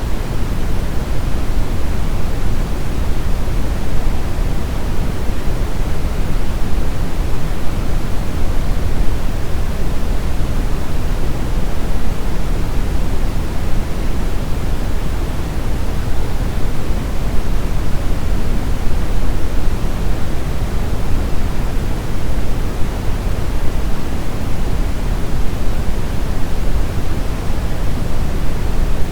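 Brown noise: a steady, even rushing hiss weighted heavily toward the low end, unchanging throughout.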